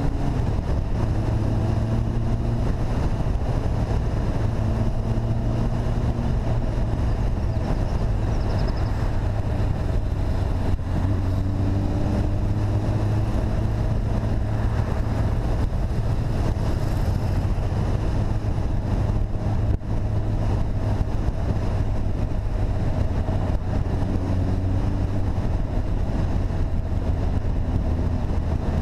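Motorcycle engine running steadily at cruising speed, its pitch drifting slightly up and down, with wind rushing over the microphone.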